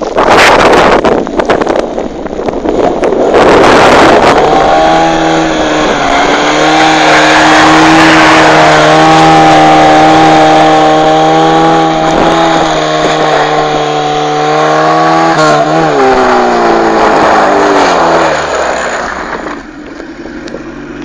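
VAZ-2107 four-cylinder engine revved hard, with sharp exhaust bangs in the first few seconds. It is then held at high rpm for about ten seconds, and the revs fall away to idle near the end.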